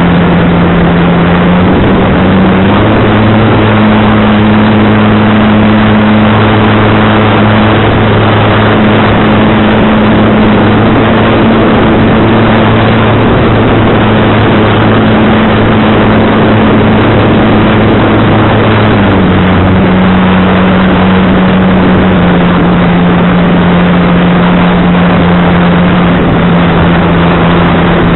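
RC model airplane's motor and propeller running at a steady pitch that steps up about two and a half seconds in and drops back near the end, heard under heavy wind noise on the microphone.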